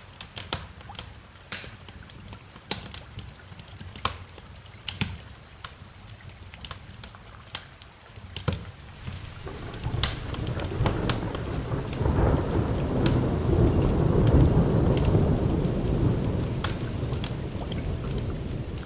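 Wood fire crackling with sharp, irregular pops over rain. About halfway through, a long low roll of thunder builds, peaks, and slowly fades.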